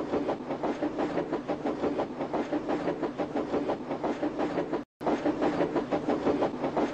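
Running train sound: a steady rhythmic clatter of a moving train, briefly cut off about five seconds in.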